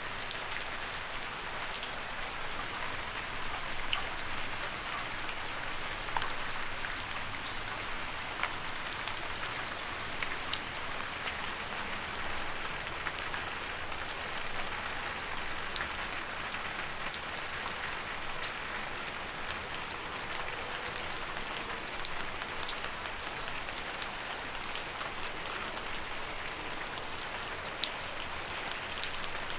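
Steady rain falling, a continuous hiss with many separate drops ticking on a surface scattered throughout.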